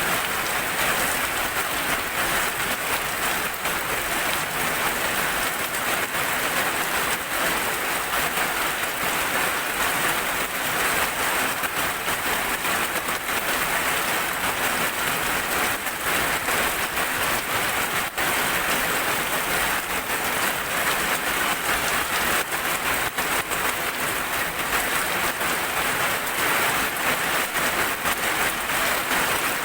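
Heavy rain falling steadily: a dense, even hiss with countless small drop ticks, no thunder.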